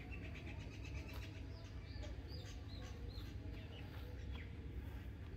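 Small birds chirping in quick, short notes over a steady low rumble of outdoor background noise. The chirps thin out near the end.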